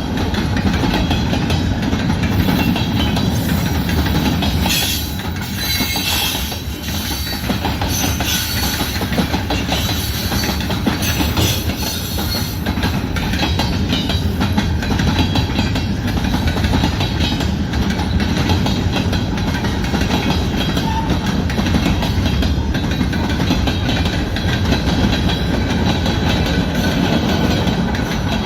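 Canadian National mixed-freight manifest train rolling past, a steady loud noise of freight cars' wheels running on the rails.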